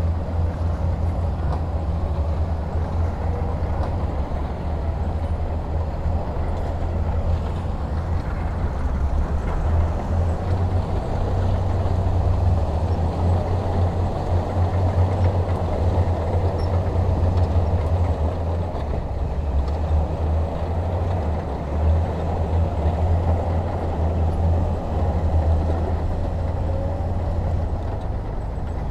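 Heavy diesel engine of earth-moving equipment running steadily, a deep continuous rumble that swells and eases slightly without stopping.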